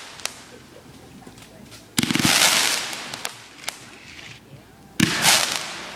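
Consumer fireworks going off: two loud bangs about three seconds apart, each followed by a hissing shower that fades over a second or two, with a few sharp pops in between.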